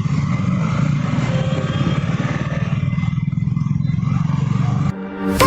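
Yamaha motorcycle engine running steadily while riding, with wind noise over the helmet mic. It cuts off suddenly about five seconds in.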